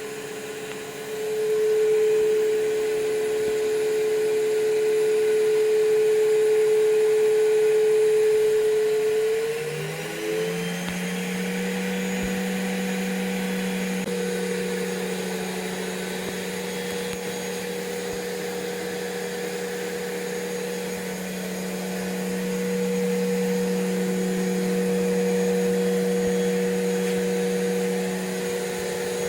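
Atlant washing machine's motor running with a steady whine as the drum turns; about ten seconds in the pitch glides up and holds higher as the drum speeds up.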